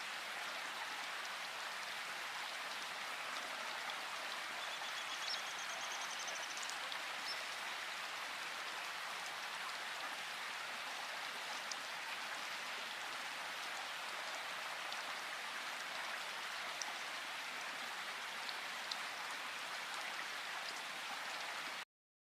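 Steady rain falling in a forest, an even patter with a few faint high bird calls about five seconds in. The sound cuts off abruptly just before the end.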